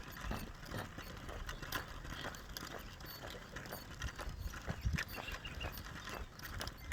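Footsteps of a person walking along an outdoor path, a steady series of light knocks, over a low rumble of wind on the microphone.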